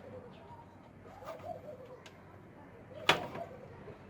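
Faint bird cooing, with one sharp click about three seconds in.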